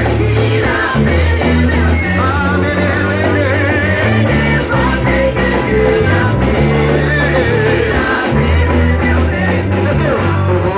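Live church worship music played loud through the PA: a band with a heavy, steady bass line and a voice singing over it.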